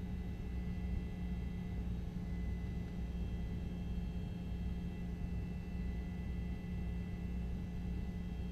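Steady drone of a news helicopter's engine and rotors: a constant low hum with faint high steady tones, unchanging throughout.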